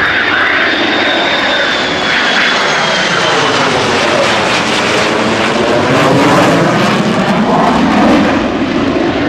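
Heritage Flight formation of a P-51 Mustang, an F-4 Phantom and an F-22 Raptor making a low pass: a loud, continuous engine roar with a high whine falling slowly in pitch over the first few seconds, getting louder about six to eight seconds in.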